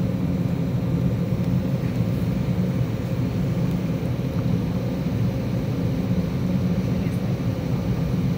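Steady low rumble with a faint even hum inside the cabin of an Embraer E190 airliner on the ground before takeoff, from its engines and cabin air systems.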